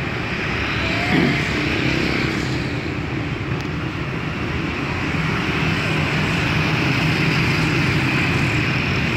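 Honda Rebel 125's two-cylinder engine idling steadily, with the hum of a city street behind it.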